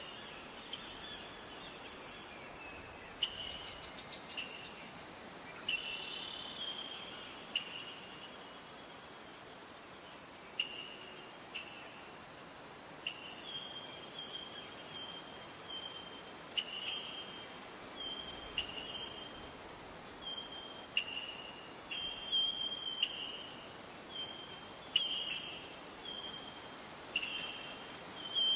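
Steady, high-pitched drone of a chorus of crickets or similar insects, with short high chirps repeating irregularly over it, some dropping slightly in pitch and coming more often in the second half.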